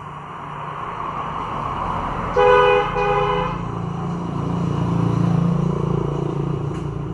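Vehicle horn honking twice in quick succession, over the rumble of passing traffic that swells and then fades.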